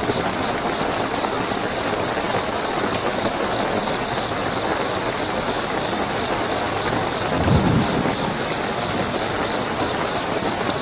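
Steady heavy rainfall with a continuous high chirring of night crickets. About seven and a half seconds in comes a brief, louder low rumble.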